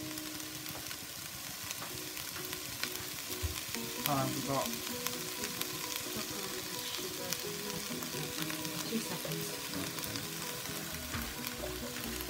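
Chopped onions, peppers, garlic and ginger sizzling in a pan greased with Fry Light spray oil: a steady frying hiss with scattered small crackles of spitting.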